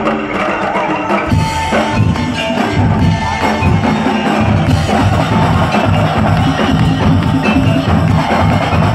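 Madurese daul (tongtong) ensemble playing: wooden slit drums and drums in a dense, steady rhythm. A few held melodic notes sound at first, and the full drum pattern comes in about a second and a half in.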